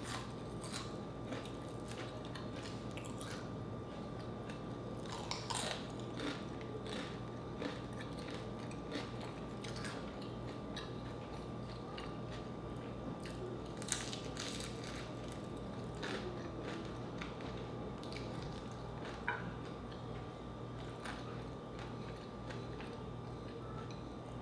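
Close-miked mouth sounds of chewing fried chicken and crispy pata (deep-fried pork knuckle), with scattered short crisp crunches and wet chewing, over a faint steady hum.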